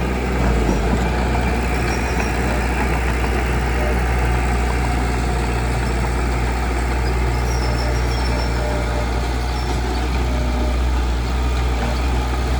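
Heavy diesel engine of a construction machine running steadily, with a continuous low hum.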